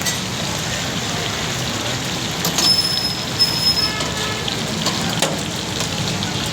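Chicken frying in hot oil in a karahi (wok), a steady sizzle, with a few sharp clicks around the middle.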